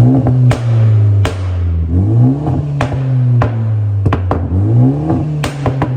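BMW G20 330i's B48 turbocharged four-cylinder engine being revved in repeated blips, the revs sweeping up and falling back. Sharp exhaust pops and crackles come through as the revs drop, from a pops-and-crackles tune.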